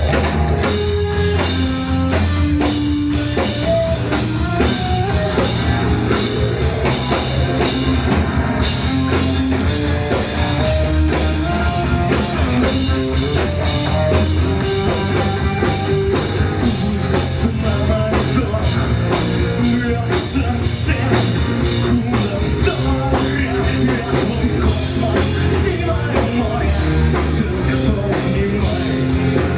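A rock band playing live, with drum kit and guitar carrying the song at a steady, full volume.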